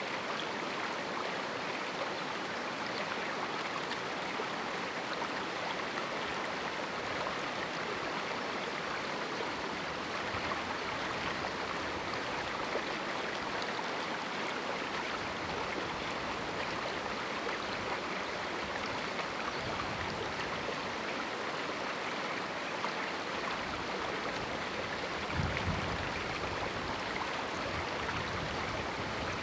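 Small canyon river flowing steadily: a continuous, even rush of running water. A brief low rumble comes in near the end.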